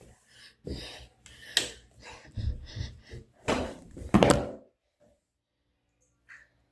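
A handful of thuds and knocks in a small room, ending about two-thirds of the way through, after which it goes quiet.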